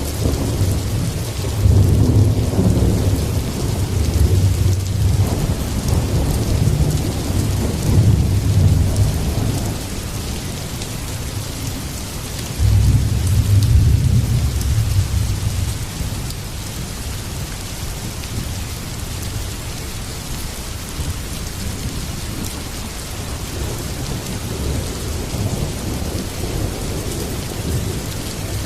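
Heavy rain falling steadily with thunder rumbling: a long deep rumble through the first third, then a second one that begins suddenly about halfway through and fades after a few seconds, leaving only the rain.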